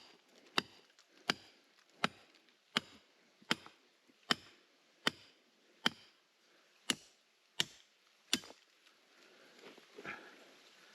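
A hand tool striking hard, rocky ground in a steady rhythm: about twelve sharp blows, roughly one every three quarters of a second. They stop about eight and a half seconds in, followed by faint scraping.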